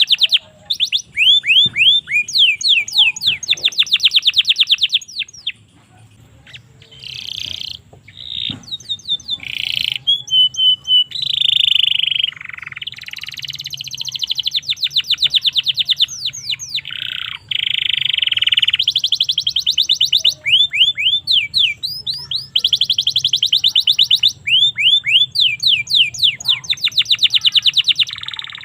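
Domestic canary singing: long, fast trills of rapidly repeated sweeping notes, one roll after another, with a short lull about six seconds in.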